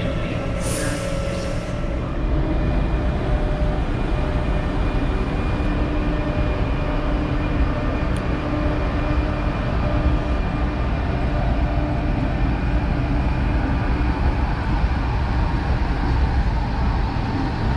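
Train running with a steady low rumble and a few faint steady tones; a short hiss about a second in.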